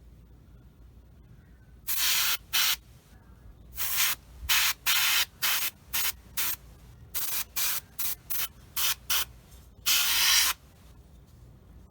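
Airbrush spraying paint in a string of short trigger bursts of hissing air, over a dozen pulls starting about two seconds in, the last one the longest.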